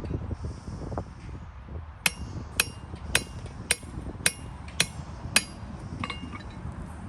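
A hammer striking metal, seven ringing blows in an even rhythm of nearly two a second, over a low background rumble.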